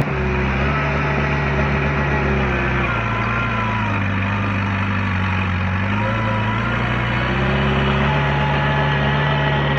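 Diesel engine of heavy earthmoving equipment running steadily. Its pitch drops about three seconds in and climbs back up a few seconds later.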